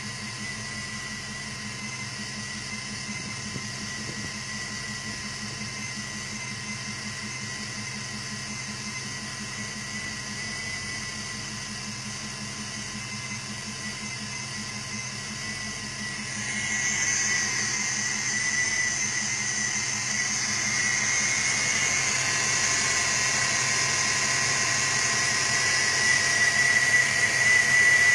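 A Ford 5.0L V8 idling steadily, with a steady high-pitched whine over it. It gets louder and hissier about two-thirds of the way through.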